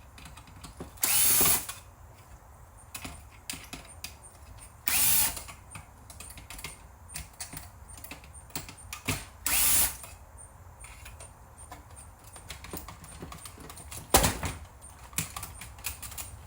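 Power screwdriver backing screws out of a VCR circuit board in three short half-second bursts, with small clicks of screws and parts being handled and a sharp knock near the end.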